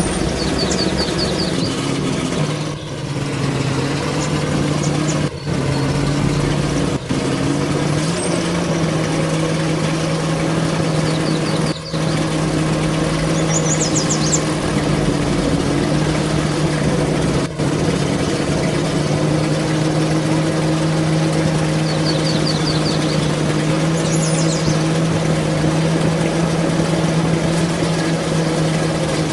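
Truck engine running steadily, its pitch rising slightly a few seconds in, with a few brief dropouts. Short high chirping trills sound over it several times.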